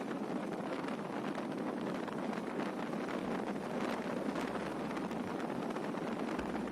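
Steady rushing wind noise on the microphone of a moving motorcycle, with road noise beneath it.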